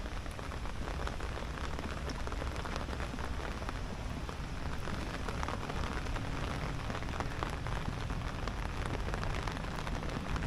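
Steady heavy rain falling, a dense even hiss with many small drop ticks close by, over a low rumble.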